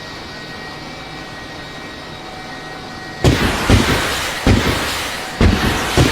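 A steady engine-like hum with faint steady tones. About three seconds in, it is cut across by a sudden loud rumbling noise that comes in several surges.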